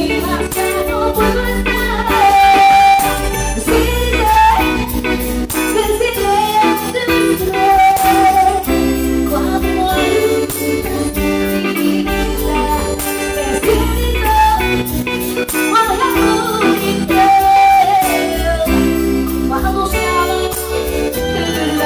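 Live cumbia band playing: a melody line repeating over a steady bass and percussion.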